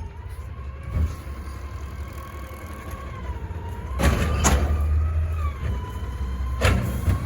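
Garbage truck running, its engine rumbling louder from about four seconds in, with a steady whine above the rumble. Four sharp knocks or clanks land over the course of it.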